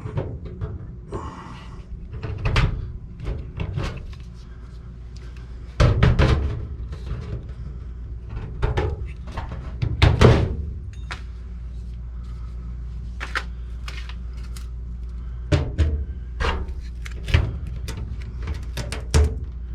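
Irregular knocks and clunks of tools and parts being handled against sheet-metal ductwork, with two heavier clunks in the middle, over a steady low hum.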